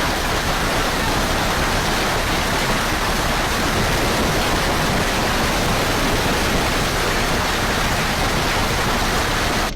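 Steady, even rushing noise that does not change in level.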